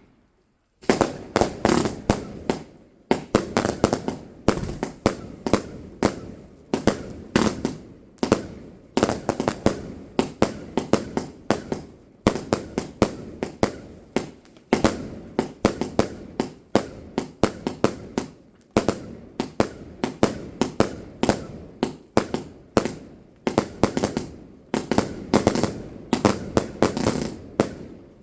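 Fireworks going off in a rapid, continuous barrage of sharp bangs and crackles. The cracks come in tight clusters less than a second apart, starting just under a second in and running on for nearly half a minute.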